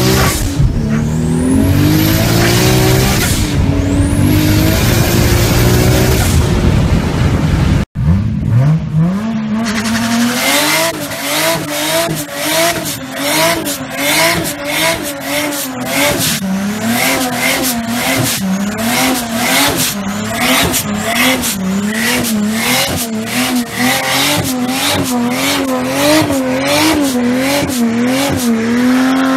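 Toyota Supra Mk4's 2JZ straight-six engine pulling hard through the gears from inside the cabin, its pitch climbing in steps, with a high whistle rising twice. After a cut about 8 s in, the engine is revved up and down over and over, with crackling and tyre squeal, as the car spins its tyres in a smoky burnout.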